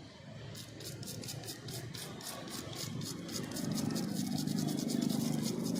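Rapid, even mechanical clicking, about six clicks a second, joined by a low hum that grows louder about three and a half seconds in.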